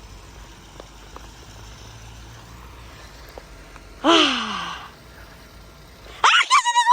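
A person's loud sigh, falling in pitch, about four seconds in, over a faint steady background. Near the end a sudden run of short, high-pitched sounds starts.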